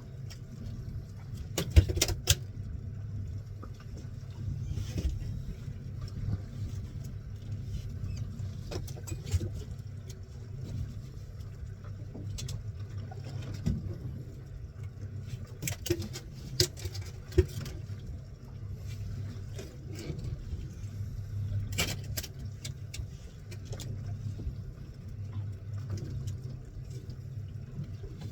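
Fishing boat's engine running with a steady low hum, with scattered knocks and clatters of gear on deck, the loudest about two seconds in.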